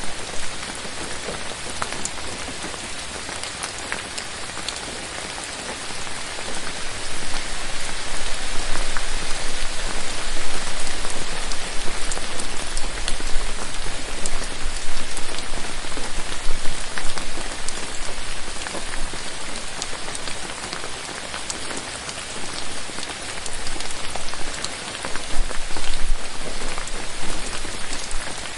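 Steady rain falling on forest foliage, a dense hiss dotted with individual drops ticking. It swells louder about a third of the way in and again near the end.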